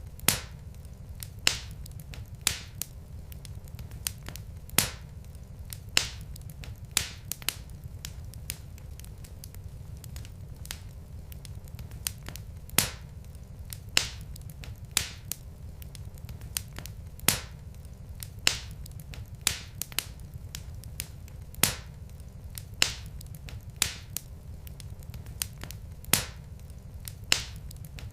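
Wood fire burning in a fireplace: irregular sharp crackles and pops from the logs, about one or two a second, over a steady low rumble of the flames.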